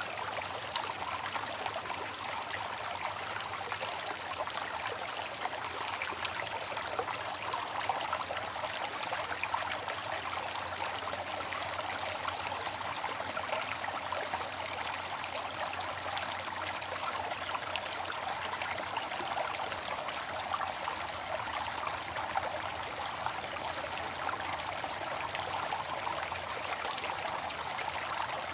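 Water fountain running, its water splashing and trickling steadily with no break.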